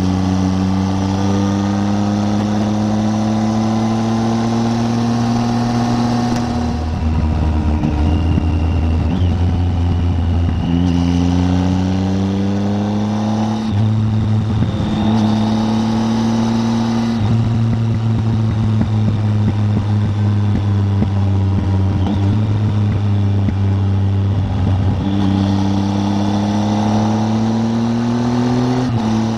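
Triumph Tiger 800's three-cylinder engine riding along, its pitch climbing as it pulls through the gears and dropping back at each gear change, with a steady cruising stretch in the middle before it climbs again near the end.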